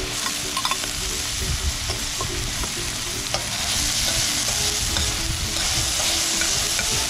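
Sofrito of onion, garlic, peppers and freshly added tomato sizzling steadily in a steel frying pan, stirred with tongs that click and scrape against the pan now and then.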